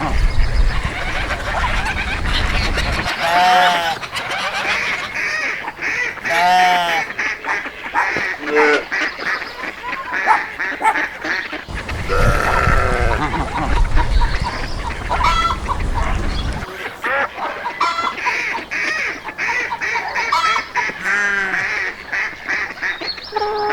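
A flock of geese and ducks honking and quacking over one another in constant overlapping calls. A low rumble runs under them at the start and again for several seconds mid-way.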